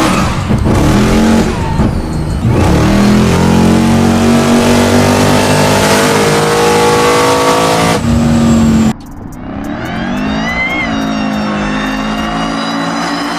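American V8 muscle car engine revving hard at high throttle, its pitch rising and falling, with a steady hiss of tyre noise. About nine seconds in it cuts abruptly to a quieter engine revving up and down.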